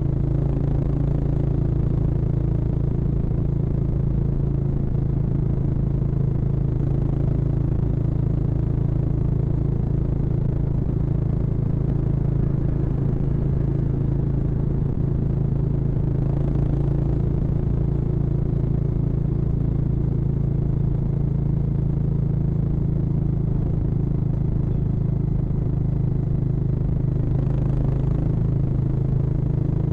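Harley-Davidson X440's single-cylinder engine running at a steady highway cruise, one even engine note without revving.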